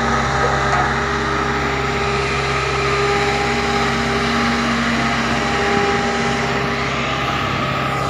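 Caterpillar motor grader's diesel engine running steadily at a constant speed, with a steady droning hum.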